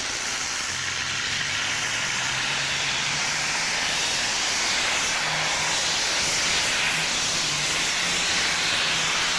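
Pulling tractor's engine running at full power under load: a loud, steady rush of engine and exhaust noise with a low hum beneath it, growing slightly louder toward the end.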